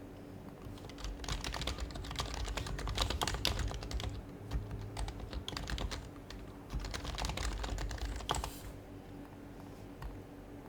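Typing on a Happy Hacking Keyboard Professional HYBRID Type-S, its Topre capacitive keys giving soft, muted thocks in two fast runs of keystrokes, a pause of about a second between them, then a single keystroke near the end.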